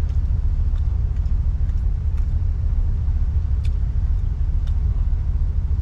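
Steady low rumble of a vehicle on the move, heard from inside the cab, with a few faint clicks.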